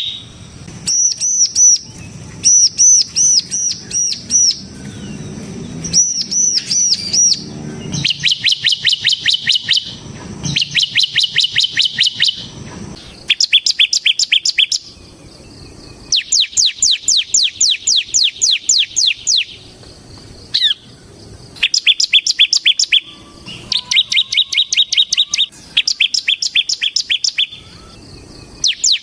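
Bar-winged prinia (ciblek semi) singing loudly in its 'ngebren' style: fast trains of repeated sharp chirping notes, each bout lasting one to four seconds. The note type changes from one bout to the next, with short pauses between them.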